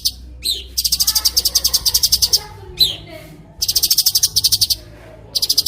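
White-rumped shama (murai batu) song on a masteran training track: three fast, high, buzzy trills of rapid repeated notes, each about a second long, with short rising whistles in between.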